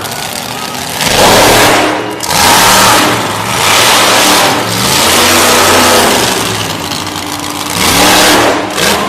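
Monster truck engine revving hard in repeated surges, its pitch rising and falling between bursts of throttle.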